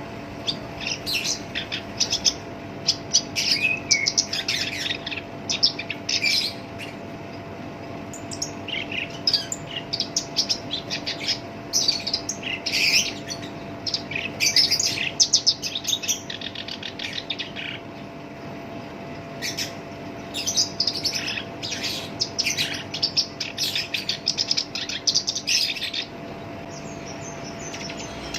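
Black-browed reed warbler singing its harsh song in long runs of rapid, scratchy notes, with a few short pauses between runs. A steady low hum runs underneath.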